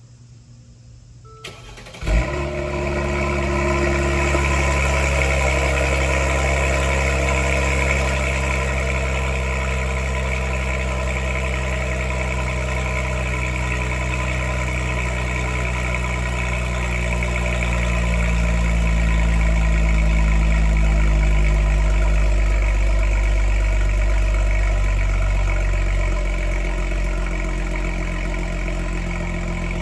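A vehicle engine started from cold: a click, then it catches abruptly about two seconds in and settles into a steady fast idle. In the last third the idle drops lower in a couple of steps as the engine warms.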